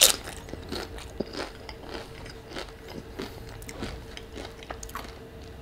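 A bite into a crunchy tortilla chip, a loud crunch at the start, then chewing with many small crunches.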